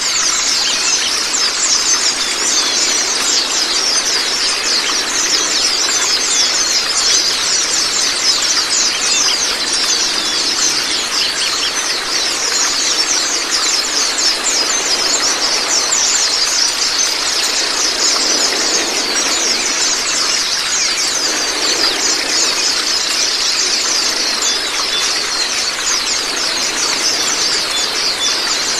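Dense chorus of many white-eyes (Zosterops) chirping and trilling rapidly in high-pitched overlapping calls, over a steady rush of running water.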